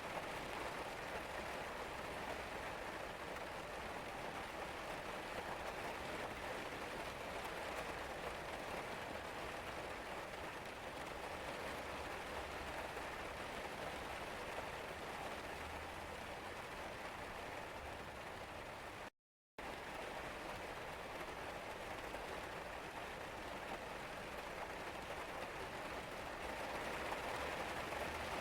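Steady rain falling, an even hiss of drops on a surface. About two-thirds of the way through it cuts out to silence for a split second, then carries on.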